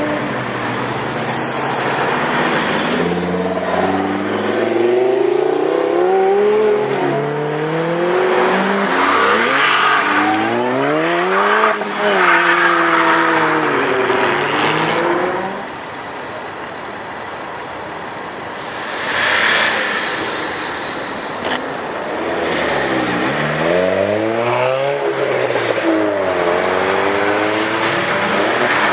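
Tuned performance car engines revving hard in repeated waves, the pitch climbing and dropping again and again. A quieter lull about halfway through, then more sharp revs near the end.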